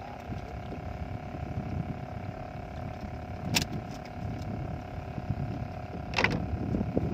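Boat engine running steadily under a rough low rumble of wind and water, with two sharp knocks, one midway and one near the end.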